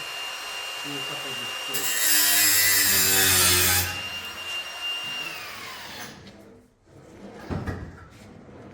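An electric power tool in metal fabrication work runs with a steady high whine. For about two seconds in the middle it makes a loud, harsh cutting or grinding noise. Its motor then winds down with a falling whine.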